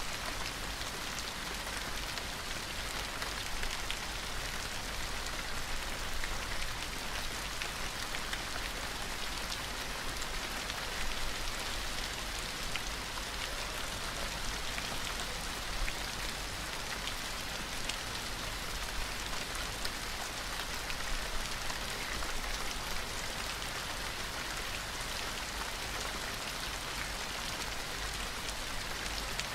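Steady rain falling on a surface, an even hiss with many small individual drops ticking through it.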